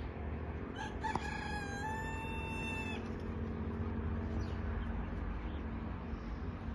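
A rooster crowing once, starting about a second in and lasting about two seconds, over a steady low background hum.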